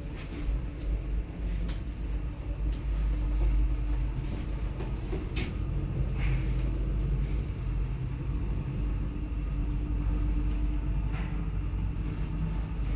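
ShchLZ elevator running, a steady low rumble with a constant motor hum, and a few short clicks scattered through it.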